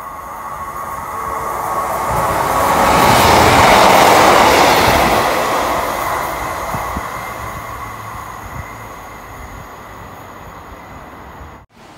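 Passenger train passing through a station. Its wheel and rail noise builds to a loud peak about four seconds in, then slowly dies away as it recedes.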